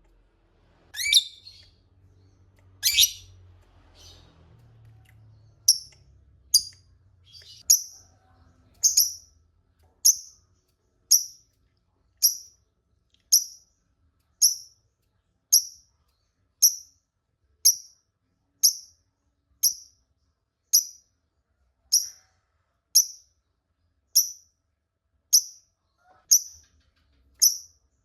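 Lovebird calling: two loud shrill calls in the first three seconds, then a steady series of short sharp chirps, about one a second.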